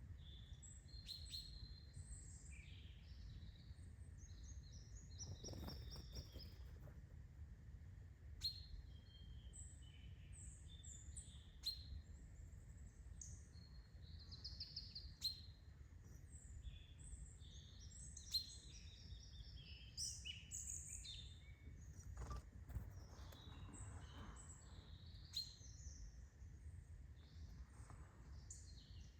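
Several small birds chirping and singing in quick, overlapping calls, over a faint steady low rumble, with a few sharp clicks standing out.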